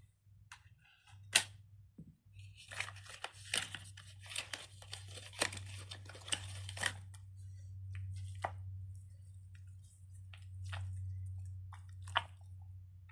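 Silicone pop-it fidget bubbles being pressed and popped: a quick run of small clicking pops for several seconds, then single pops every second or two. A faint steady electrical hum lies underneath.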